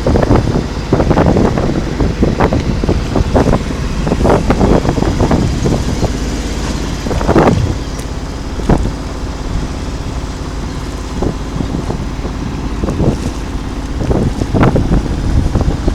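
Wind buffeting the microphone aboard a sailboat under way, a loud, gusty rumble with irregular knocks, easing somewhat about halfway through.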